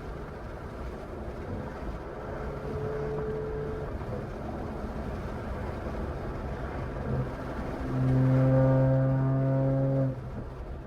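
BMW 540i's turbocharged B58 straight-six running through a catless downpipe and straight-piped exhaust while driving, a steady engine drone. About eight seconds in it gets clearly louder for a couple of seconds on a held, even pitch, then drops back.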